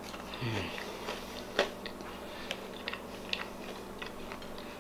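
A person chewing a bite of soft marshmallow chocolate chip cookie topped with caramel sauce, with scattered wet mouth clicks and a short closed-mouth hum about half a second in.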